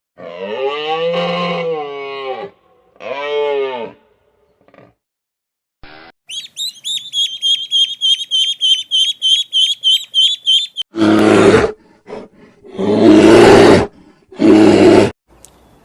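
A string of animal calls: two drawn-out pitched calls that rise and fall, then a quick run of high bird chirps, about five a second. It ends with three loud, rough roars.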